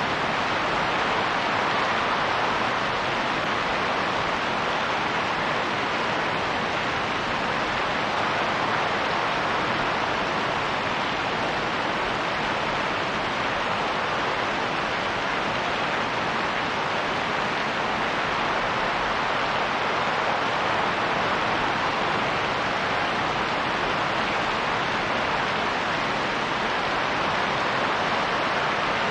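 Steady rain, a dense even hiss with no single drops or gusts standing out.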